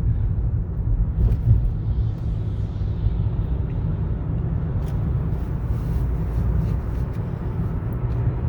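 Steady low rumble of road and engine noise inside the cabin of a 2015 Toyota Camry SE driving along.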